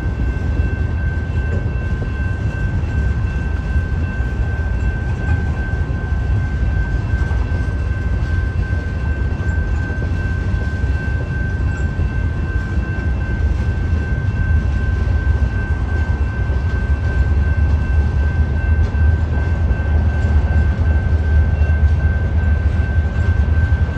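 Freight train's cars rolling past on the rails: a steady low rumble of wheels on track with a thin, steady high tone over it, growing slightly louder near the end.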